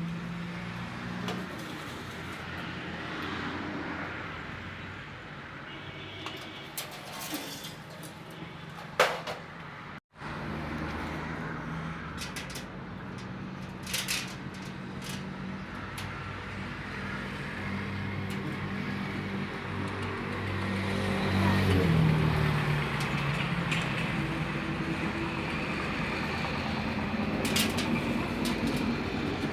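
Steady running of a motor-vehicle engine with street traffic noise, its low hum shifting in pitch, with a few sharp clicks; the sound cuts out for a moment about ten seconds in.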